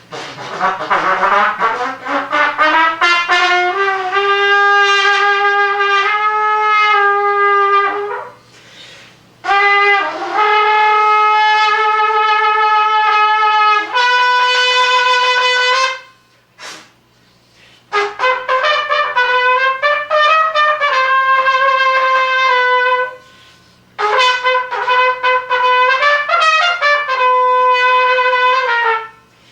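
A single wind instrument playing solo in long held notes, in phrases a few seconds long with short breaks between them. It opens with a slow upward slide in pitch, and later the held notes waver and bend.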